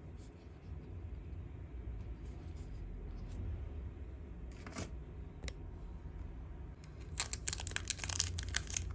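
Quiet room hum with a couple of light clicks, then from about seven seconds in a dense crinkling and tearing of packaging as it is handled and unwrapped.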